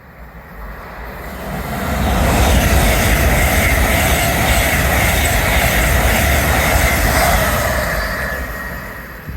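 A train passing through a station at speed: the rumble builds over about two seconds, stays loud for about five seconds with a steady ringing whine from the wheels on the rails, then fades away.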